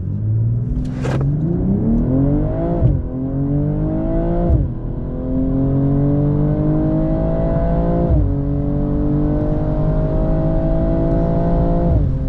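A 2022 BMW M240i xDrive's B58 turbocharged inline-six accelerates hard at full throttle. The engine note climbs steadily through each gear and drops sharply at each upshift of the ZF eight-speed automatic: about three, four and a half and eight seconds in, and again near the end.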